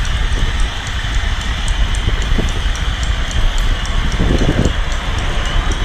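Wind rushing over the microphone of a moving action camera, a steady heavy rumble with road noise under it. A faint regular ticking runs through it, with a short dull thump about four seconds in.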